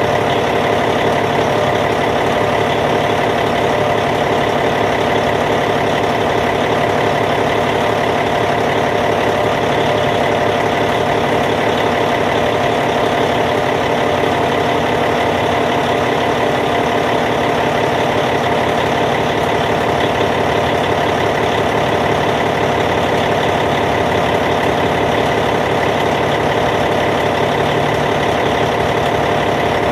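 Caterpillar C15 diesel engine of a D8T bulldozer idling steadily.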